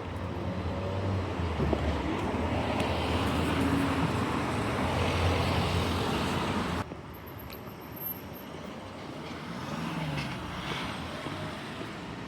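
Road traffic: a vehicle's engine and tyre noise swelling as it passes close by. It breaks off abruptly about seven seconds in, leaving quieter background traffic.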